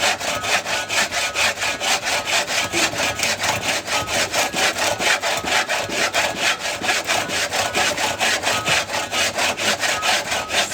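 Hand saw cutting through wood in quick, even back-and-forth strokes, about four or five a second.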